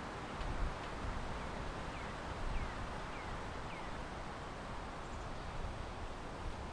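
Steady wind rustle, with a small songbird giving four short, descending chirps about two to four seconds in.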